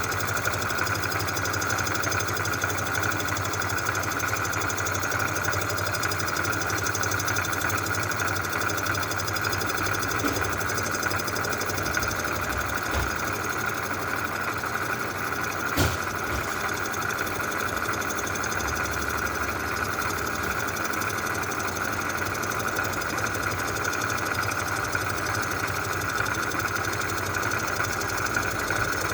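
Metal-surfacing machine running steadily while cutting the rusty exhaust-side face of a cast-iron Oldsmobile V8 cylinder head, with one sharp click about sixteen seconds in.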